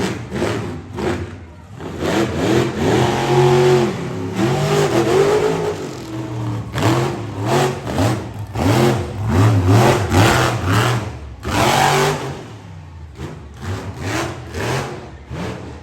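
Monster truck engine revving hard in repeated throttle bursts, its pitch rising and falling with each blip, with longer full-throttle pulls about two to five seconds in and again from about seven to twelve seconds in.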